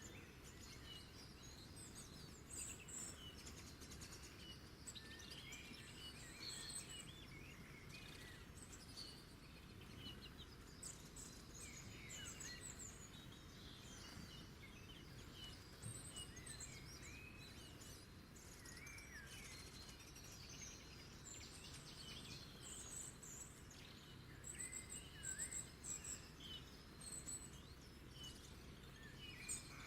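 Several small birds chirping and singing, faint, with short high whistles and twitters overlapping over a low, even background hiss.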